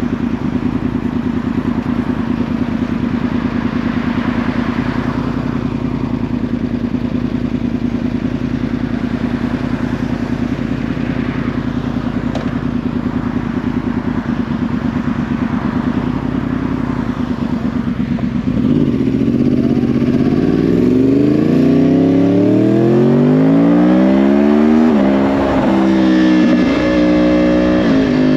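2010 Yamaha R1's crossplane inline-four, through a Yoshimura exhaust, running at a steady engine speed, then about 18 seconds in accelerating hard with the pitch rising. There is one gear change about 25 seconds in, then it runs steadily again at higher speed.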